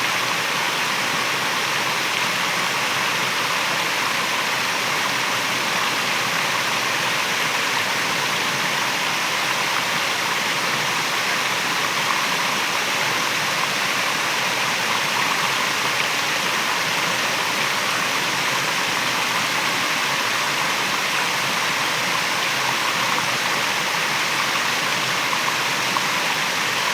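Waterfall: falling water rushing steadily, an even unbroken sound with no changes.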